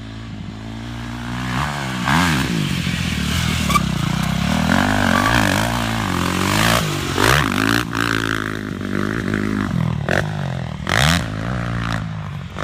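Dirt bike engine revving up and down several times as the bike rides, its pitch rising and falling with the throttle.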